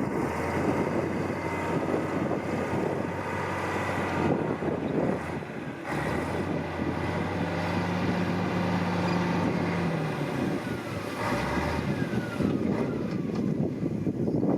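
Diesel engine of heavy earthmoving machinery running steadily under work, with a low hum and a held engine tone for a few seconds midway.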